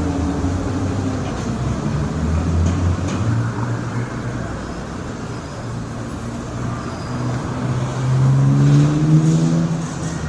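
A road vehicle's engine running amid traffic noise; about eight seconds in, its pitch rises and it gets louder.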